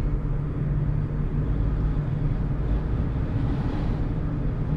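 Steady road and engine noise of a moving car heard from inside the cabin: a low, even rumble with a constant hum.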